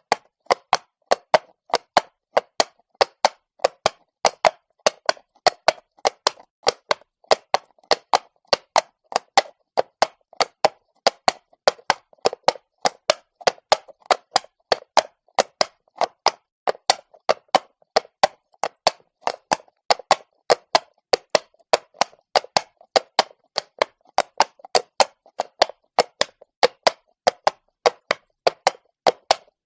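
Horse walking on stone: a steady, even clip-clop of hoof strikes, about two to three a second.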